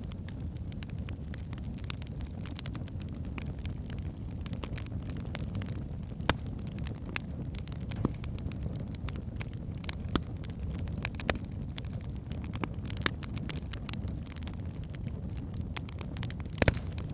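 Wood fire burning in a fireplace: a steady low rumble of the flames with scattered sharp crackles and pops from the logs, a few pops louder than the rest, the loudest near the end.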